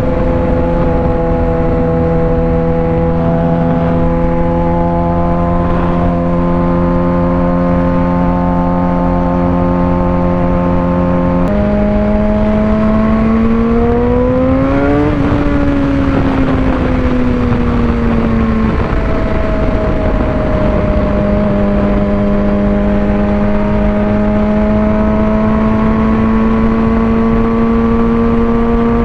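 Suzuki GSX-R600's inline-four engine under way at steady revs, its note stepping up suddenly about a third of the way in, rising briefly and falling away, then stepping down again and slowly climbing toward the end, with wind rush underneath.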